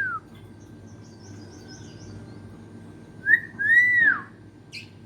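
Hill myna whistling: a short upswept note followed by a longer arched whistle about three seconds in. Faint high chirps come before it and a brief chirp follows near the end.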